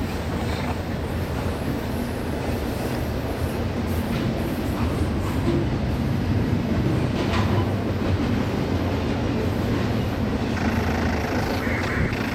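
Double-stack container well cars of a Union Pacific intermodal freight train rolling past: a steady rumble of steel wheels on rail, with a higher-pitched noise joining in near the end.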